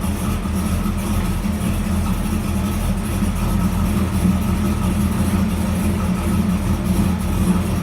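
1994 Camaro's freshly installed LT1 5.7-litre V8 idling steadily on its first run-up.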